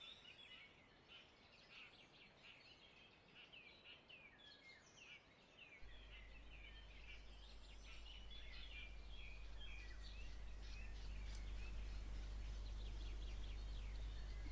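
Small birds chirping and singing in quick, overlapping calls. About six seconds in, a steady low hum starts suddenly under the birdsong and grows louder toward the end.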